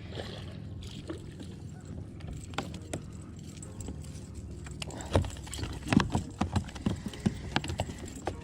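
Irregular knocks and taps of fishing gear and a caught striper being handled aboard a plastic kayak, growing busier about five seconds in, over a steady low rumble.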